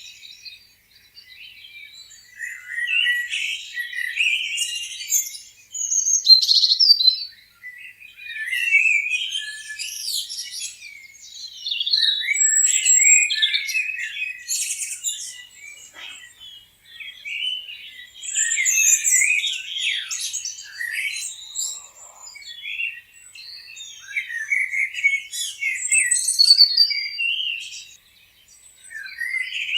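Several birds chirping and trilling together in rising and falling waves of song every few seconds, with short gaps between.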